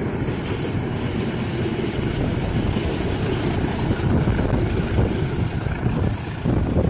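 A train hauled by a KAI CC201 diesel locomotive running past, a steady low rumble with some wind on the microphone.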